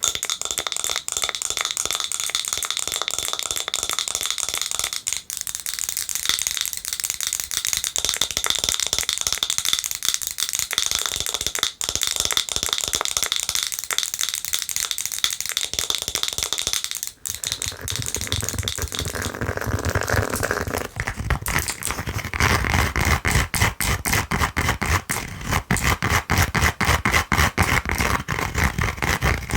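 Fast, aggressive tapping and scratching with long fingernails on a glass jar with a wooden lid: dense, bright clicks over a faint ringing tone. About two-thirds of the way through it changes to tapping and scratching on a slipper, duller and fuller with more low thud.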